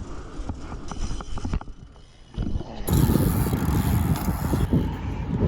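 Low rumbling wind noise on the microphone, jumping louder about three seconds in.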